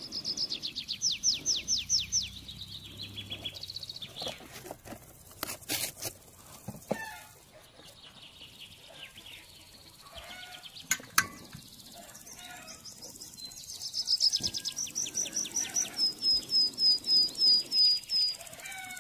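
A songbird singing runs of quick, high, descending chirps, several phrases, the loudest a run of evenly spaced notes near the end. A few sharp clicks fall in the middle.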